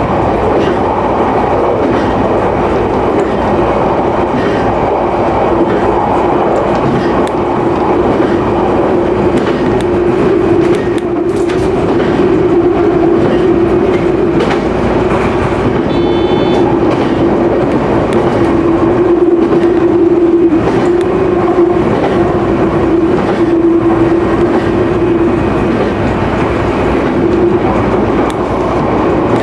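Local electric train running along the line, heard from inside the car: a steady rumble with a held hum and scattered clicks of the wheels over the rail joints.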